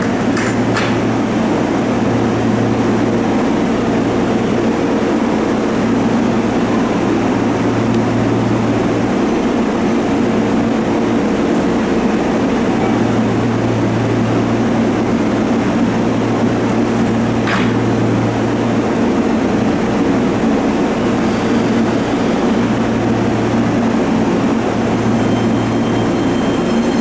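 Keihan electric train at the station platform: a loud, steady rumble, with a low hum that fades in and out several times.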